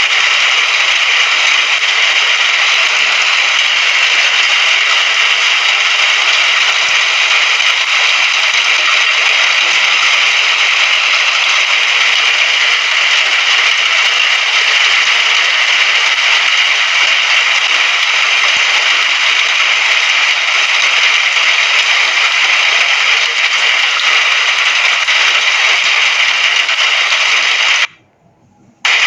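Recorded rain sound effect: a steady, even hiss of rainfall. It cuts out for about a second near the end, then starts again.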